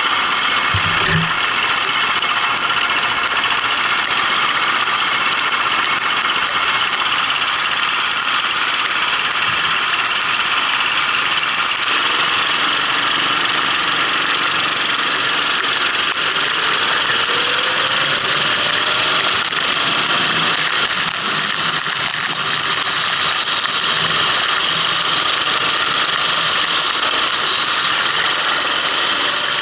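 Go-kart engine running, picked up by an onboard action camera, over a steady hiss; the engine pitch rises slowly about two-thirds of the way through.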